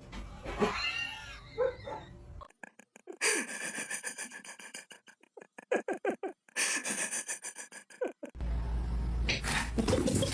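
A dog making short, rapid, repeated calls. The sound cuts off abruptly twice as separate clips change.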